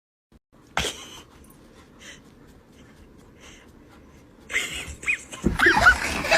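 A dog breathing hard and panting, getting louder and busier near the end with short squeaky cries.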